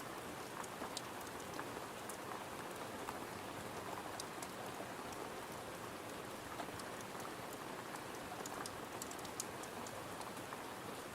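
Steady rain falling on a window, an even hiss with many small sharp ticks scattered through it.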